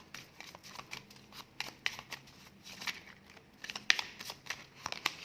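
Tarot cards being shuffled and handled: a run of quick, irregular card flicks and slaps, with the sharpest snap about four seconds in.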